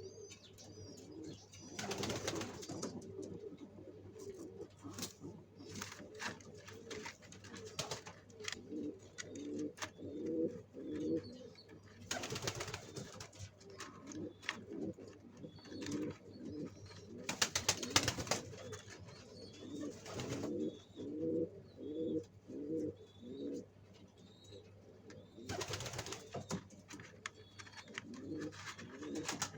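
Domestic pigeons cooing over and over in low, pulsing phrases, with faint high chirps of other birds. Four times a brief burst of noise cuts across the cooing.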